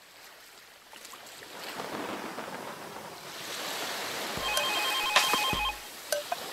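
Rain noise fading in and swelling louder. About four seconds in, a telephone rings once with a trilling electronic ring, over two deep bass hits.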